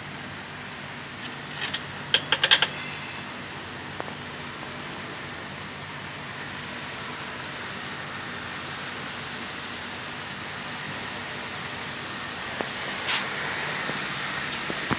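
An engine running steadily, with a quick run of sharp metallic clicks about two seconds in and another click near the end.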